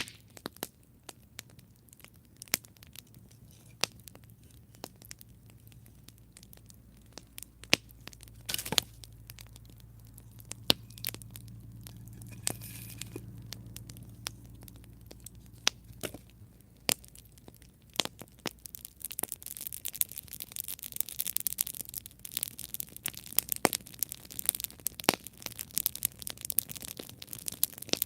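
Campfire crackling, with sharp wood pops every second or two. A low rumble swells through the middle, and the last third turns to denser, hissing crackle.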